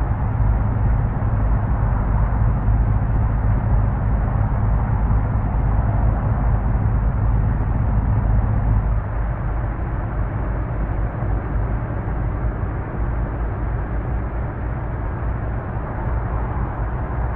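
Heavy truck driving, its engine running with a steady low hum over road noise. About halfway through, the engine's hum drops away, leaving mostly tyre and road noise at a slightly lower level.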